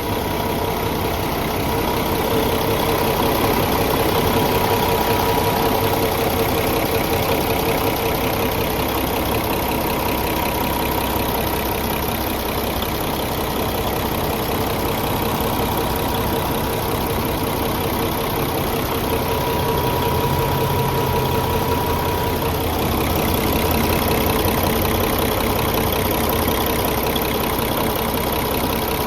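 2016 Kenworth T800 semi-tractor's diesel engine idling steadily.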